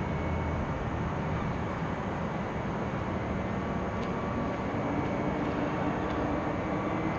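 Steady low engine rumble, with a droning hum that comes up somewhat higher past halfway and a faint click about four seconds in.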